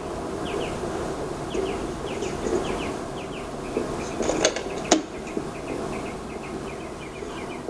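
Small animals chirping: short high chirps, often in pairs, repeating over a steady background hiss, with two sharp clicks about four and a half and five seconds in.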